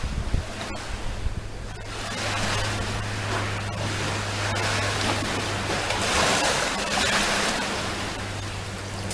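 Sea waves breaking and washing up the shore, the surf swelling loudest about six to seven seconds in, over a steady low hum.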